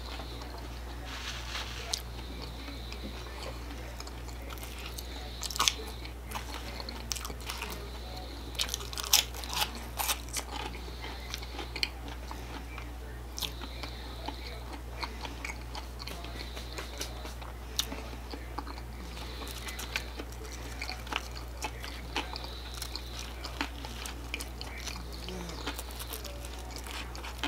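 Close-miked mouth sounds of a person chewing crunchy food, with sharp crunches scattered throughout and thickest in a cluster from about five to eleven seconds in, over a steady low electrical hum.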